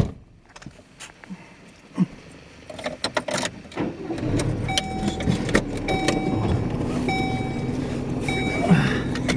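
Inside a car: a few clicks and knocks, then steady engine and road noise comes up about four seconds in, with a short warning chime repeating about once a second.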